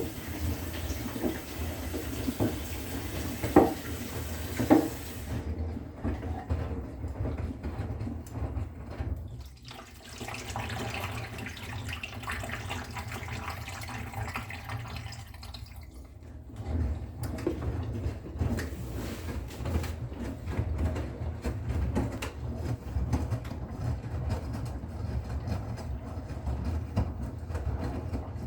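Bosch Serie 6 front-loading washing machine at work: water hissing into the machine for the first five seconds or so, with two knocks, over a steady low rumble of the turning drum that carries on after the water stops.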